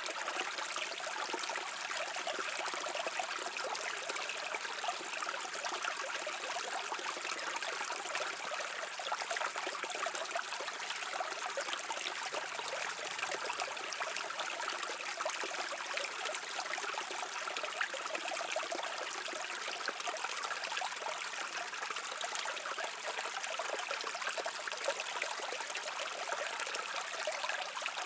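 A shallow stream babbling and trickling over rocks, a steady, even water sound with fine splashy detail.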